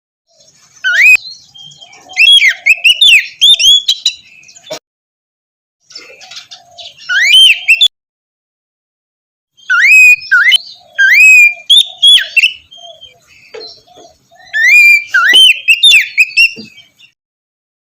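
Oriental magpie-robin (kacer) singing, loud runs of rapid sweeping whistles and chirps in three bursts, with short gaps of silence about five seconds and eight seconds in.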